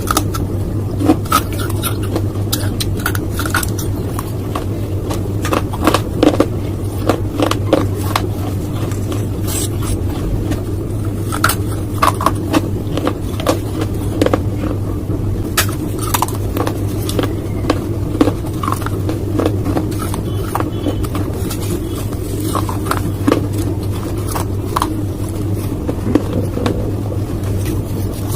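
Close-up crunching and chewing of hard clay: many short, sharp crunches at irregular intervals over a steady low hum.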